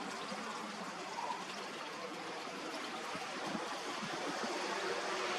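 Steady rushing outdoor background noise with no distinct events, rising slightly near the end.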